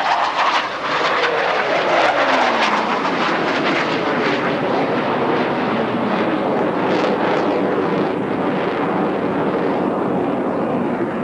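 Blue Angels F/A-18 Hornet jets passing low and loud, the engine pitch falling over the first few seconds as they go by, then a steady jet rumble as they climb away.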